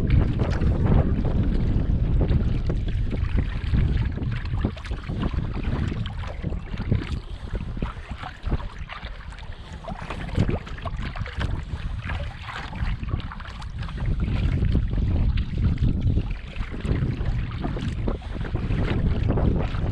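Wind rumbling on the microphone of a kayak on the water, with short splashes of water against the boat or paddle. The rumble eases in the middle and picks up again after about fourteen seconds.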